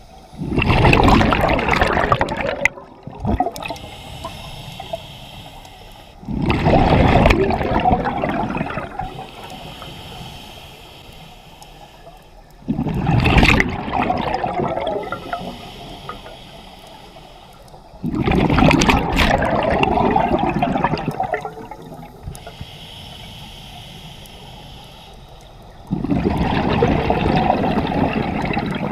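Scuba diver breathing through a regulator underwater: a loud rush of exhaled bubbles five times, about every six seconds, with quieter stretches between breaths.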